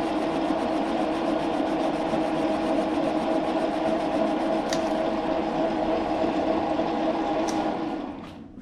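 Metal lathe running steadily with a steady hum, and a couple of light clicks midway. It shuts off near the end.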